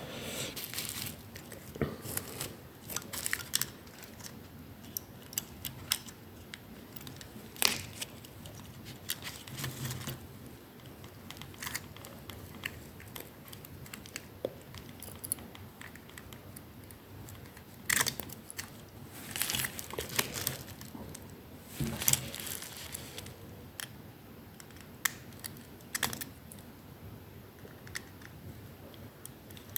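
Close-up handling noises of a fine screwdriver and tiny model-locomotive parts: scattered small clicks, taps and scrapes with some rustling, a few sharper clicks standing out at irregular moments.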